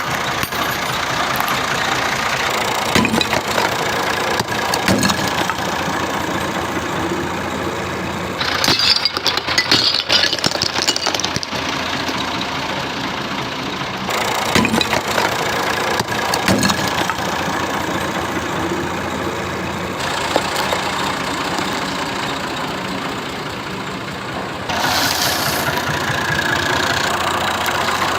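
A tractor engine running steadily. Louder rough, hissy noise joins it for a few seconds about a third of the way in, and again near the end.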